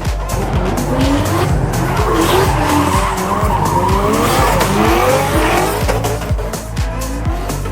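Drift car engine revving up and down repeatedly while the tyres squeal in a slide, over background hip-hop music with a steady beat.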